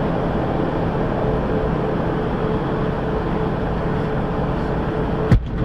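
Steady vehicle road and engine noise of a car driving, picked up by a dash camera. It ends with one short sharp knock shortly before the sound cuts off.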